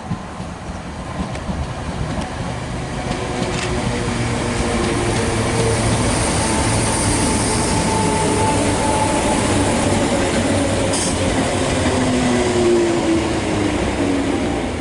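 A passenger train running past on the track, its sound building over the first few seconds, holding steady with a low hum and held running tones, then easing off near the end.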